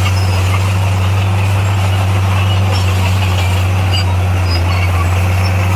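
Heavy-equipment diesel engine running at a steady speed, a deep even drone, with faint high squeaks scattered over it.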